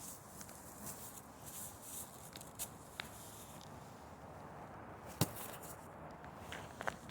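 Footsteps in snow over a faint, steady background hiss, with a few sharp clicks, the loudest about five seconds in.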